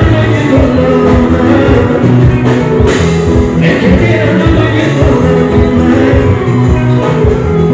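Live band music with singing, played loud through a PA system, with heavy bass and a steady pulsing beat.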